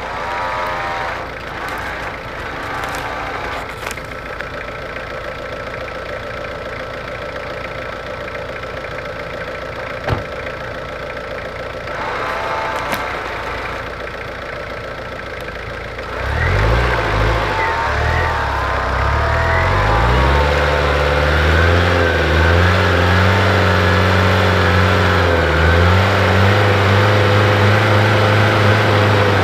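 Vehicle engine running. About halfway through, a louder, deeper engine sound starts up and keeps running, its pitch shifting up and down.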